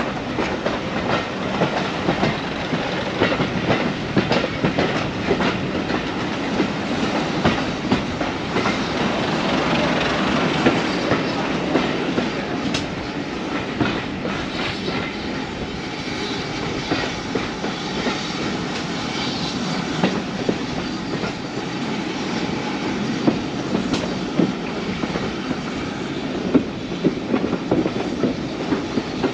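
Heritage railway train running along the track, its wheels clicking and rattling steadily over the rail joints.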